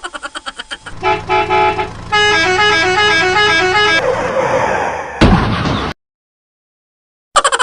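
Cartoon sound effects: a rapid rattle of pulses fading out, three short vehicle-horn honks, then a horn playing a quick up-and-down tune. A rising whoosh ends in a sharp hit, the sound cuts out for over a second, and the rapid pulsing starts again near the end.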